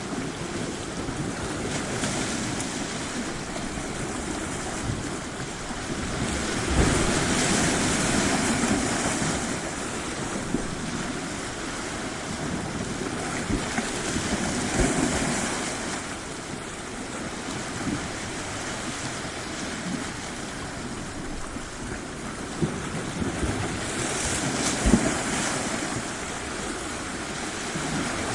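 Surf washing onto a beach: a steady hiss of water with three larger waves surging in and ebbing away.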